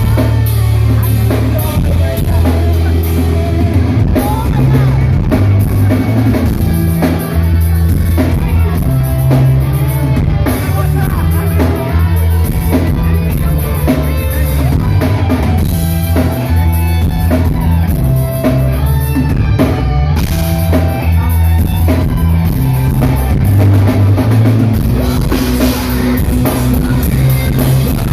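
Live rock band playing loud through a phone's microphone: heavy drums, bass and distorted guitar with a lead singer's voice, heard from among the audience.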